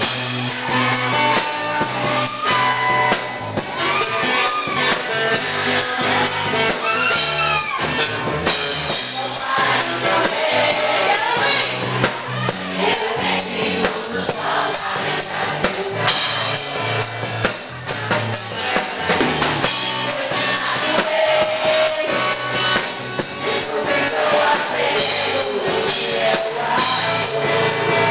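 A band playing a song with a singing voice over drum kit and guitar.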